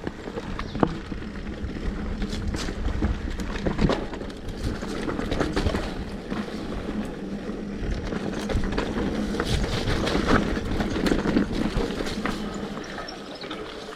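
Mountain bike rolling down a dirt trail: a continuous rumble of tyres over the ground, with the bike rattling and knocking over bumps and roots.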